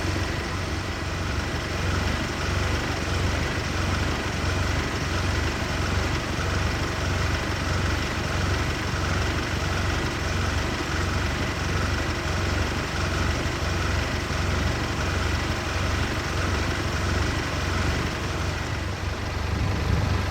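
Safari vehicle's engine idling steadily with a low, even rumble.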